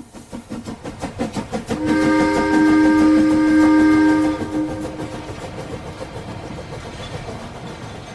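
Steam locomotive working, with rhythmic exhaust beats and its whistle blown for about two and a half seconds starting about two seconds in, several tones sounding at once as a chord; the beats carry on, slowly fading.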